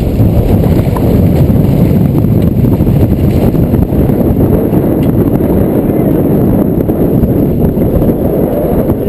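Strong wind buffeting the microphone on a small sailboat under way in high wind: a loud, steady low rumble.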